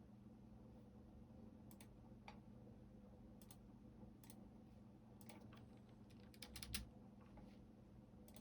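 Computer keyboard keys being pressed, faint and unhurried: single keystrokes spaced about a second apart, then a quick run of several keys about two-thirds of the way in. A steady low hum runs underneath.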